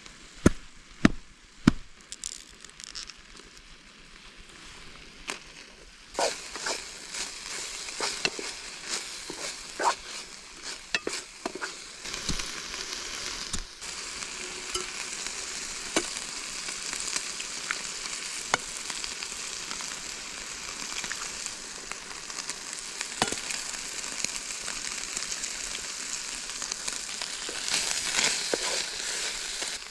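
A few sharp knocks, then from about six seconds in food sizzles and crackles steadily in a hot pan on a Trangia camping stove.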